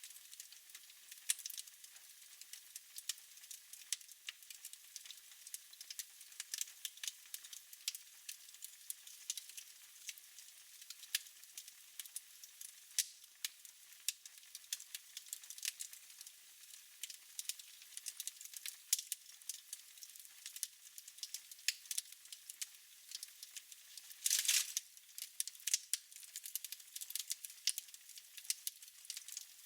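Wood fire crackling in a fireplace: a soft hiss with many sharp snaps throughout, and one louder pop about twenty-four seconds in.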